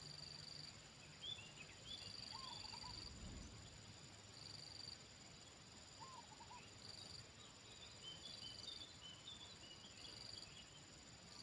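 Faint outdoor ambience: an insect's high buzz repeating in pulses about every two seconds, small birds chirping faintly, and twice a faint short three-part bird call.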